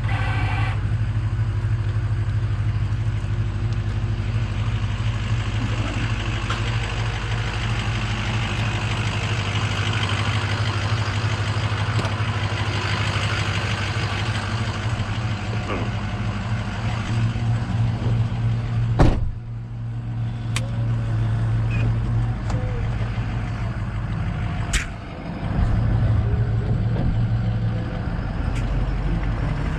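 Truck engine idling steadily, with a few sharp clicks and knocks over it, the loudest about two-thirds of the way through.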